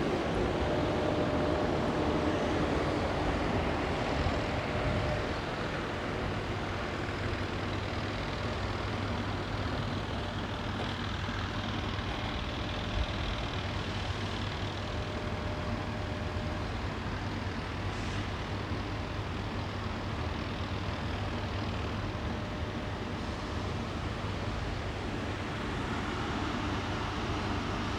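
Steady outdoor background noise with a constant low hum, of the kind distant road traffic makes, with no clear single event standing out.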